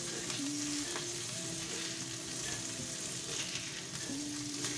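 Salmon fillets sizzling steadily as they fry in oil in a nonstick frying pan, with silicone tongs moving and turning the pieces.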